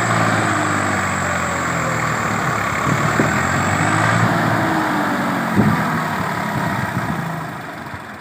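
Swaraj tractor's diesel engine running steadily, with a couple of short knocks; the engine sound fades near the end.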